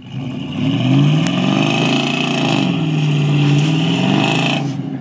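Blue Chevy mud-bog truck's engine revving hard under load as it tries to back out of the mud where it is stuck. The pitch rises, dips and rises again, then the engine backs off sharply near the end.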